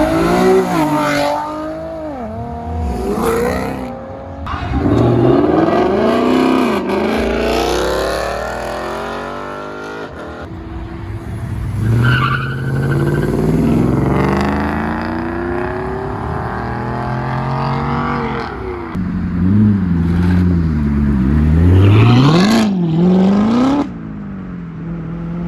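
Performance car engine being revved hard, its pitch climbing and falling over and over with loud rev sweeps, easing off near the end.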